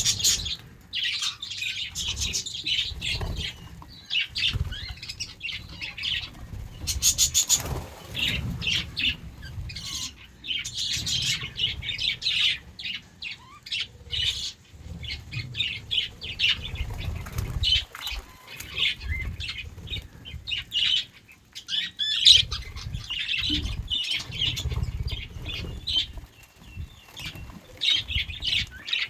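A flock of budgerigars chirping and chattering in a dense, nonstop stream of short high calls.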